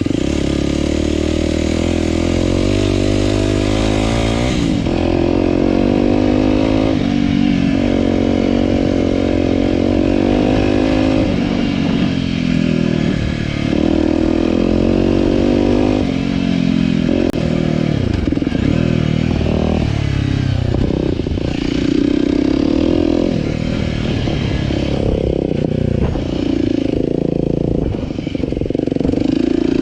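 Aprilia RX125 4T's single-cylinder four-stroke engine running through a Snell aftermarket silencer with a dB killer, under way. The revs climb and drop back sharply several times, as at gear changes. In the later part they rise and fall more unevenly as the throttle is opened and closed.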